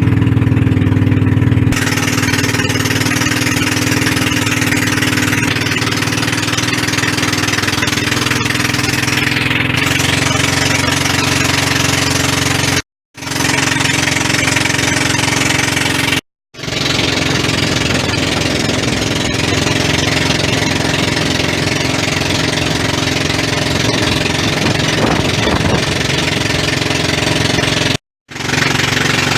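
Pump boat (outrigger water taxi) engine running at a steady pitch under way, loud and close, with the rush of water and air over it. The sound drops out briefly three times where the footage is cut.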